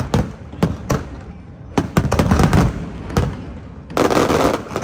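Fireworks display: aerial shells bursting in a rapid, irregular series of sharp bangs over a low rumble, with a dense burst of crackling about four seconds in.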